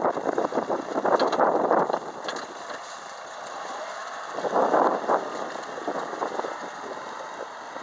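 Wind buffeting the microphone in loud gusts, over the first two seconds and again about halfway through, with a Kubota tractor running underneath.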